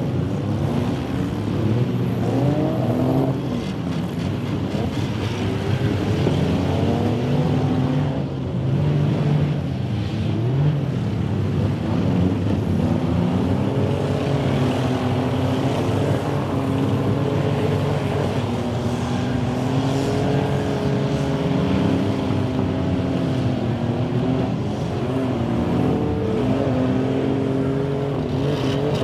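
Many demolition derby car engines running and revving at once, their pitches rising and falling over each other without a break.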